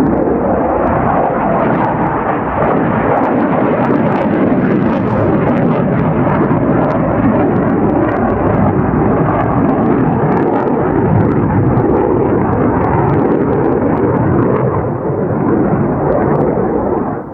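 Loud, steady jet roar of an F-4 Phantom's twin J79 turbojets flying a display, easing a little near the end.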